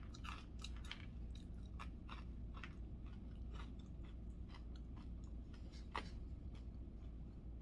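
A person chewing food close to the microphone, with soft, irregular crunches and one sharper crunch about six seconds in.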